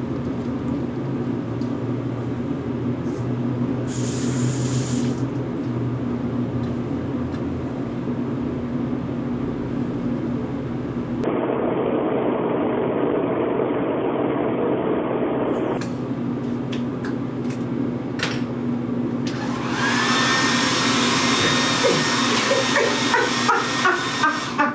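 Handheld hair dryer running with a steady motor hum and a rush of air. The sound shifts in character a few times.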